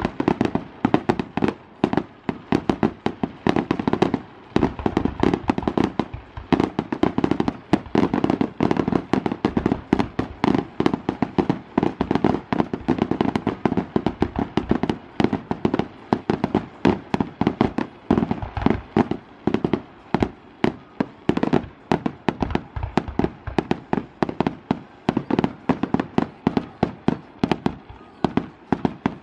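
Aerial fireworks shells launching and bursting in quick succession: a dense, unbroken barrage of bangs and crackles, several a second.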